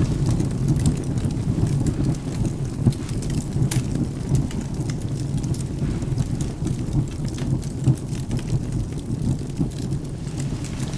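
Wood fire crackling with scattered sharp pops over a steady low rumble of rain and distant thunder.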